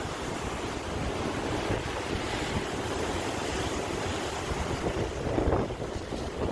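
Sea waves breaking in continuous surf, with one louder wave about five and a half seconds in.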